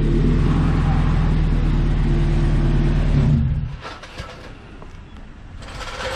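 Mazda B2200 pickup's newly installed engine running steadily just after it finally started, then stopping suddenly about three and a half seconds in.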